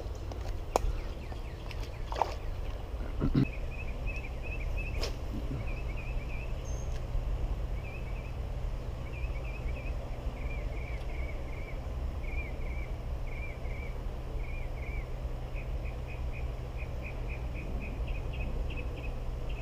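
Outdoor ambience with a steady low rumble, a few sharp knocks in the first few seconds, and, from about four seconds in, a small animal chirping in quick repeated groups of short high notes.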